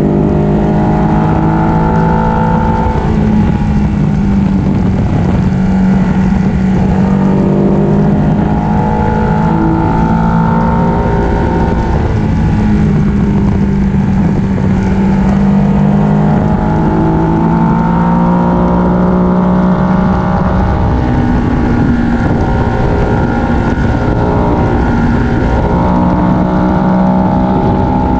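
Ducati 1299 Panigale's 1285 cc Superquadro L-twin engine running under way, its note gliding gently up and down as the throttle changes, over a steady rush of wind noise.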